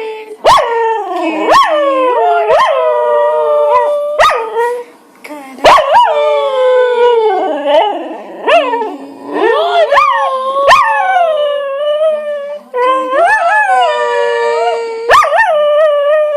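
A dog howling in long, wavering howls that slide up and down in pitch and are held for a second or more, with shorter yips between them and sharp clicks breaking in repeatedly.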